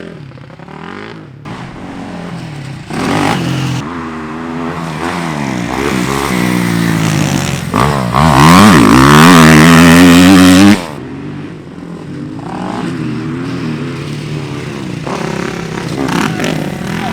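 Dirt bike engine revving up and down as it is ridden, its pitch rising and falling again and again. It is loudest for a few seconds in the middle, then drops off suddenly.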